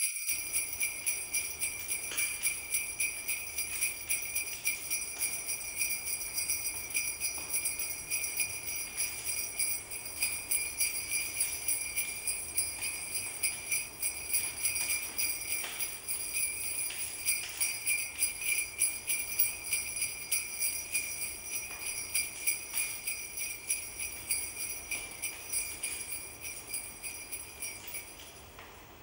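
Sleigh bells shaken continuously in a quick, pulsing jingle; the bells fade out near the end.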